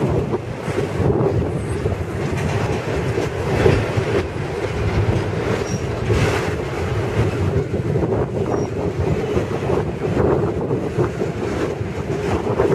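Double-stack intermodal well cars rolling past on steel wheels, a steady rumble with the clatter of wheels on the rail and a few brief knocks.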